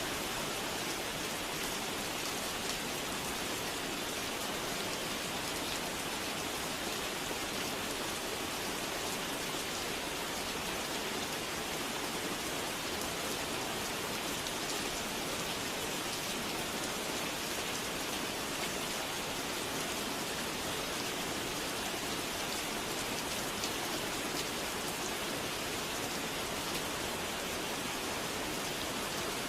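Steady rain falling on a surface, an even unbroken hiss of drops with no change in strength.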